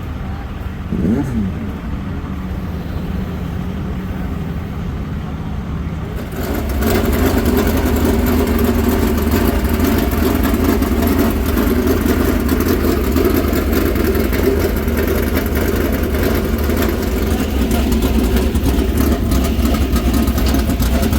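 Super Late Model race car's Ford 422 cubic inch V8 running, heard from inside the car. It drones steadily with one quick blip that falls back about a second in. About six seconds in it gets much louder and stays loud.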